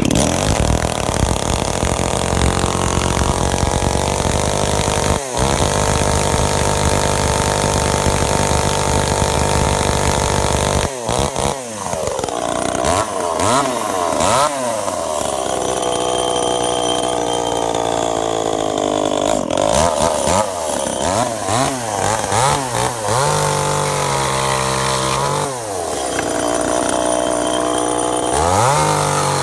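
Tanaka TCS-3359S two-stroke engine chainsaw running just after starting, steady for about ten seconds with a brief stumble near five seconds. After that it is revved up and down repeatedly, with spells held at high revs.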